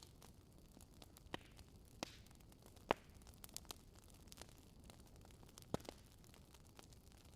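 Wood fire in a fireplace crackling quietly: irregular sharp pops and snaps over a soft steady hiss, the loudest pop about three seconds in.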